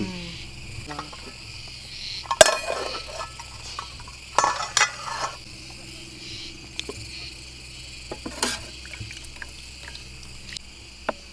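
Crickets and other insects chirping steadily, with a few sharp clinks and clatters of dishes and utensils breaking through now and then.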